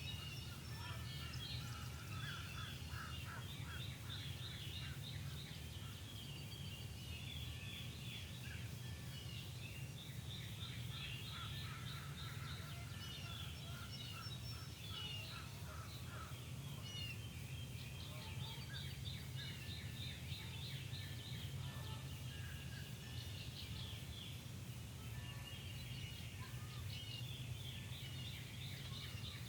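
Many songbirds calling and singing at once in a spring dawn chorus, with short chirps and trills overlapping throughout. A steady low hum runs underneath.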